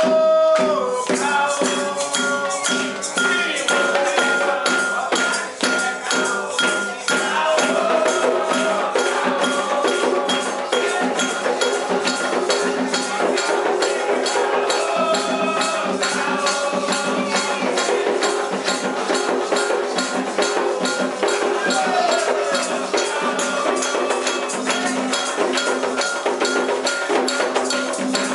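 Voices singing a Candomblé chant for Xangô over fast, steady hand percussion: a ringing bell and rattling shakers keep an even beat.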